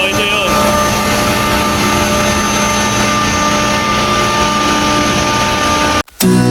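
Steady mechanical drone with constant hum tones, typical of a running water-cooled screw chiller and its plant room. It cuts off abruptly about six seconds in.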